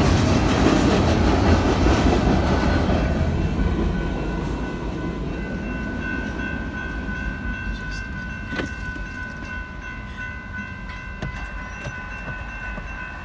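The last freight cars of a Union Pacific train rolling over the crossing, their wheels clattering on the rails, with the noise fading over the first four seconds as the train clears. The grade crossing's warning bell keeps ringing as a steady ring that stands out once the train is gone. A single sharp click comes about eight and a half seconds in.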